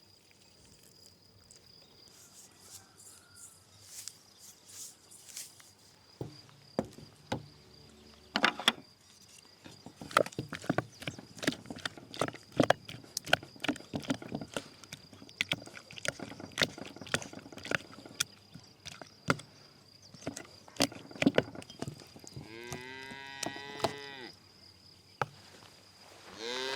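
A cow moos once near the end, a call of about a second and a half that rises and then falls in pitch. Before it, a long run of irregular sharp clicks and cracks.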